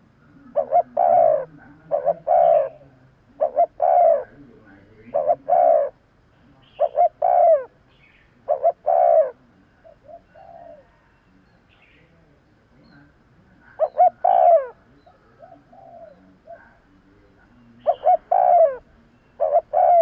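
Spotted dove cooing: loud phrases of two or three coos repeated every couple of seconds, with a softer stretch of short notes in the middle.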